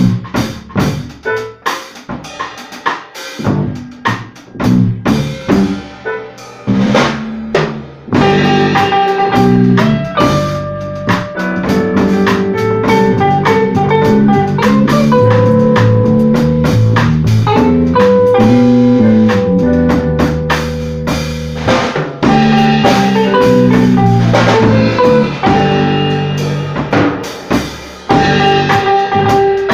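Band playing an instrumental piece led by a drum kit: the first seconds are mostly drum hits with sparse notes, then from about eight seconds in bass and keyboard notes fill in and the playing gets fuller and steadier.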